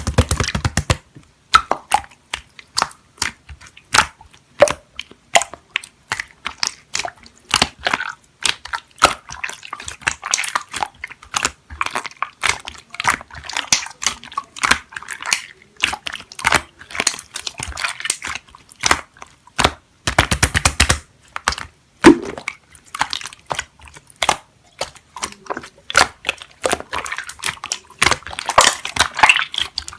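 Slime being squished and kneaded by hand, giving a dense, irregular run of wet clicks and pops.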